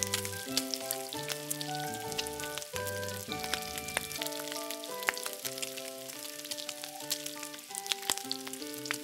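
Batter-coated paneer cubes shallow-frying in hot oil in a nonstick kadai, sizzling steadily with many small pops and crackles. Background music with held notes plays along with it.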